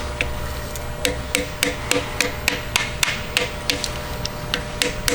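A hammer tapping on metal, sharp even strikes about three a second that start about a second in, each with a short ring, over a steady shop hum.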